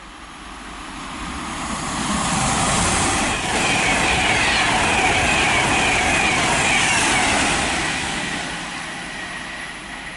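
Class 390 Pendolino electric train passing through at speed without stopping: a rushing noise swells to a peak in the middle and fades away, with a whine that drops in pitch as it goes by.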